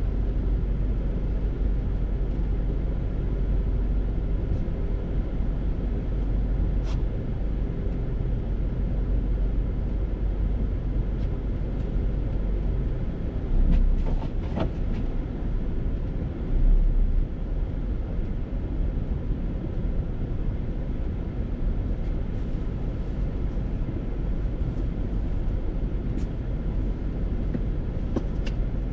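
Steady low rumble of a vehicle on the move, engine and road noise mixed, with two brief louder bumps around the middle.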